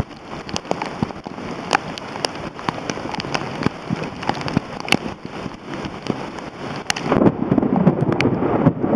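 Heavy rain pouring down, with individual drops striking close to the microphone as many sharp ticks. About seven seconds in, the sound turns to a louder, denser rushing, like wind buffeting the microphone.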